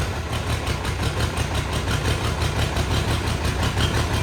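Old diesel tractor engine running fast and rough just after a freezing cold start, a rapid even chugging beat; it sounds angry, racing before it settles down.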